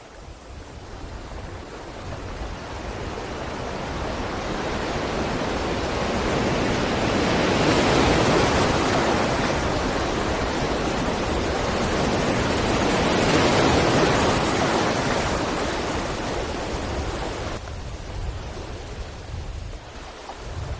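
Sea waves washing onto a shore: a rushing hiss that builds from quiet to a peak about eight seconds in and again near thirteen seconds, then falls away.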